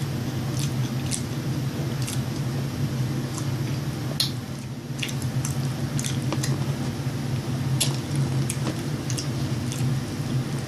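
A person chewing and eating with wet, squishy mouth sounds and scattered small clicks, over a steady low hum.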